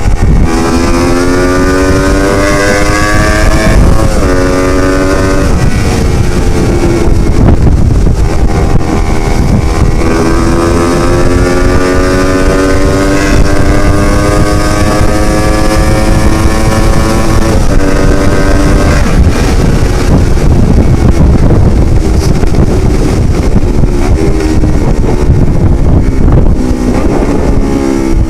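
Yamaha R25's parallel-twin engine through a Proliner full-system aftermarket exhaust, accelerating hard through the gears while riding. The pitch climbs in each gear and drops at each upshift, several times. Heavy wind noise buffets the microphone, and in the last third the engine note settles lower under the wind.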